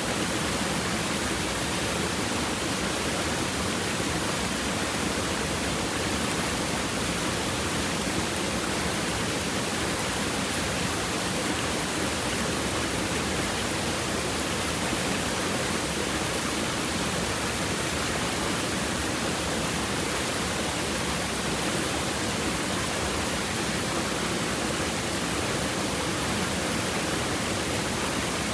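Steady rush of a river stream babbling over stones, an even, unbroken water noise.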